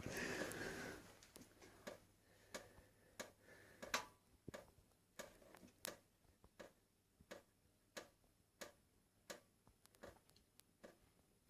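Water dripping from a kitchen tap into the sink, one faint drip about every two-thirds of a second. A brief soft rustling noise comes in the first second.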